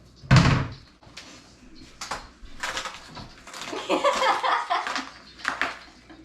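A kitchen cabinet door banging shut once, loudly, about a third of a second in, followed by softer clattering and rustling.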